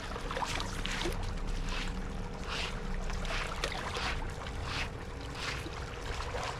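Shallow water splashing and lapping in quick repeated strokes, over a steady background rush.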